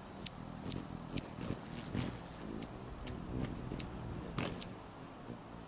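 Hummingbirds chipping at a feeder: a series of short, sharp, high chips, about two a second.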